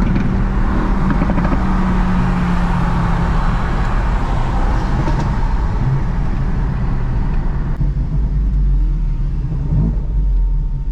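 A car driving, with a steady engine note under road and wind noise; the higher rushing noise drops away about eight seconds in, leaving a low rumble.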